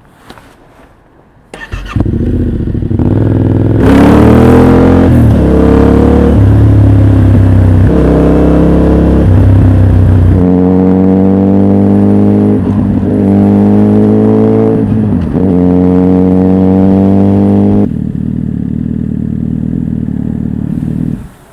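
Motorcycle engine with an aftermarket full exhaust system started, then revved repeatedly, the pitch rising and falling several times. It settles to a steady idle and is shut off near the end.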